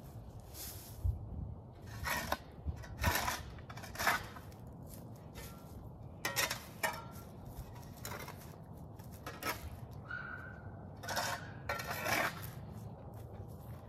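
Digging tool scraping and striking into soil in about a dozen irregular strokes, with a short high squeak about ten seconds in.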